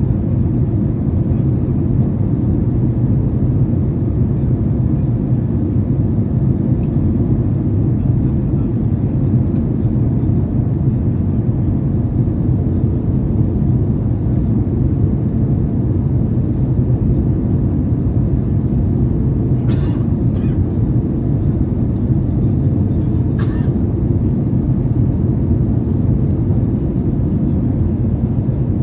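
Airliner cabin noise in flight: a steady, loud low rush of engine and airflow, with a few faint clicks about two-thirds of the way through.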